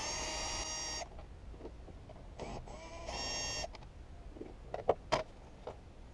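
A cordless screwdriver whirring twice, each time spinning up and holding a steady high whine for about a second and then half a second, as it works the airbox fasteners loose. A few light clicks and knocks follow near the end.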